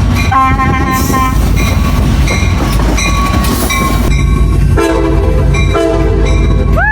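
Locomotive air horn sounding chord blasts, about a second in and again near the end, over the steady rumble of a train.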